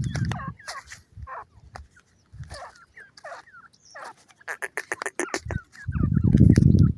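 Francolins (teetar) calling with many short chirping notes, with a quick run of notes about four and a half seconds in. A loud low rumble comes near the end and is the loudest sound.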